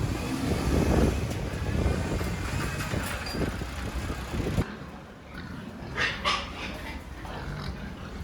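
Pigs grunting and squealing while being loaded onto a livestock truck, over low rumbling noise that stops abruptly a little over halfway through; two short squeals follow.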